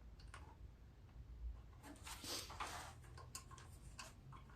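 Faint clicks and short scrapes of a bolt and hand tools being handled while the bolt for the oil dipstick tube is fitted.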